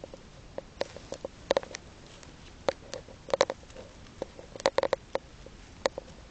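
Budgerigar tapping and pecking: irregular sharp clicks, several in quick clusters of two to four.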